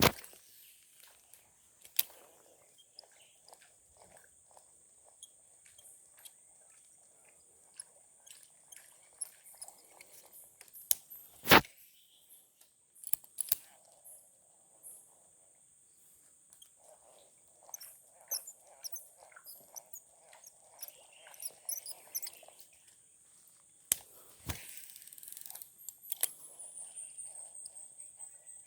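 Steady high-pitched insect trill, with scattered faint rustling and a few sharp clicks, the loudest about a third of the way in.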